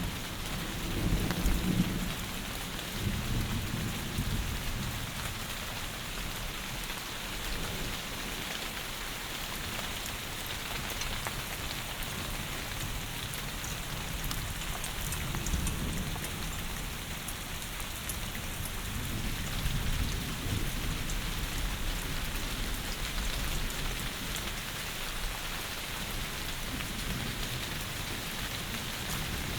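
Heavy rain falling steadily, with low rumbles of thunder swelling in the first few seconds and again near the middle.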